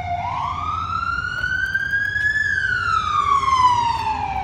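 Emergency vehicle siren wailing: its pitch climbs for about two seconds, then slides slowly back down.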